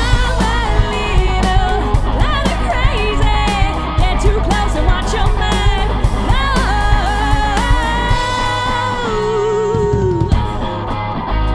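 Live rock band playing, with a sung vocal line over guitar and drums. About eight seconds in, the drums and bass drop away for a couple of seconds under a held, wavering note, then come back in near the end.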